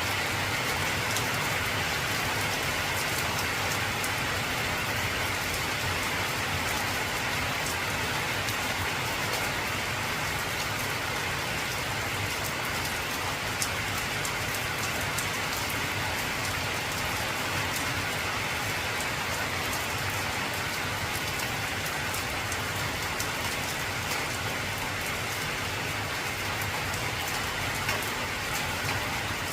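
Heavy rain falling steadily on an old corrugated zinc roof: a dense, even patter of drops with many fine sharp ticks from drops striking the metal.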